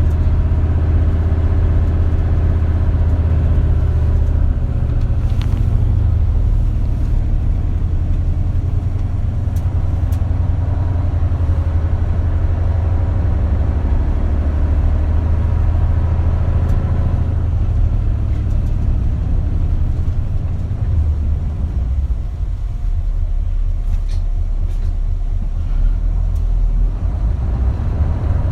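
Isuzu Erga (KL-LV280L1) city bus heard from inside the cabin: the diesel engine and road noise while under way, the engine note climbing over the first few seconds, then running steadily. Near the end the sound drops to a slower, even low throb.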